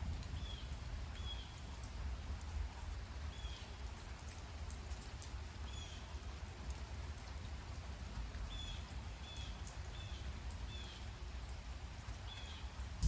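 Steady rain, with drops pattering close by over a low rumble. A bird gives short, high call notes at irregular intervals of about a second.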